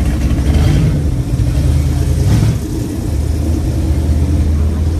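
Loud exhaust rumble of a Chevrolet Chevelle driving off with its exhaust cutouts open, a deep, steady engine note.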